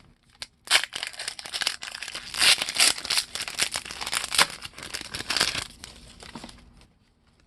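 Trading card pack wrapper crinkling and tearing as it is ripped open by hand, a run of dense crackles and snaps lasting about six seconds before stopping near the end.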